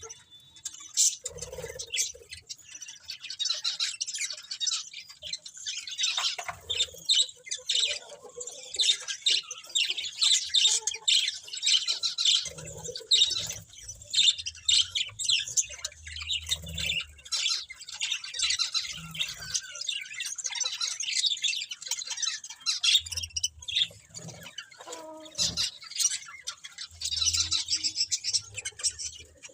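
Budgerigars chirping and chattering in a rapid, continuous stream of high chirps.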